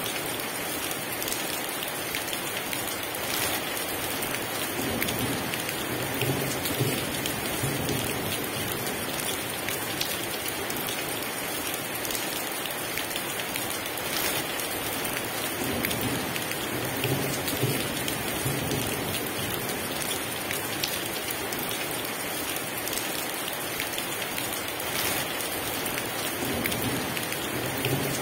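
Heavy rain falling steadily in a dense, even hiss of drops, with low rumbles of thunder swelling three times: a few seconds in, around the middle, and near the end.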